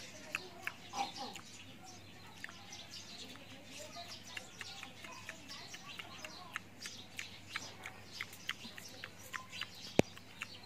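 Small birds chirping in the background: short, high chirps coming several times a second, with a single sharp click near the end.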